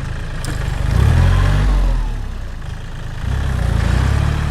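Heavy vehicle engine running, revving up about a second in, easing off, then revving again near the end.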